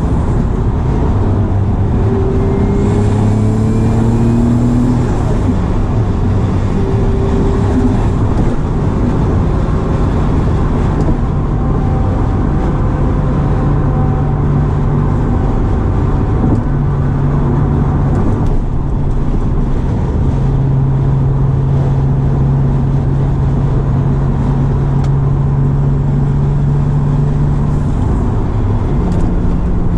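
Twin-turbocharged Acura NSX V6 running on the road, heard from inside the car over steady road and wind noise. The engine note shifts pitch a few times as the revs change.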